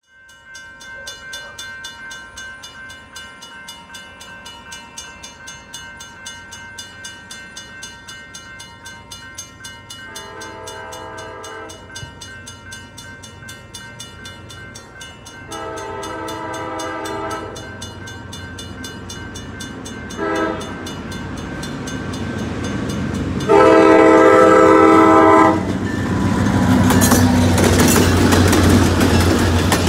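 Railroad crossing bell ringing steadily. A diesel locomotive's multi-note air horn sounds the grade-crossing signal, two long blasts, a short one and a long one, each louder as it nears. Near the end the locomotive passes close by with its diesel engine running and the wheels clattering over the rails.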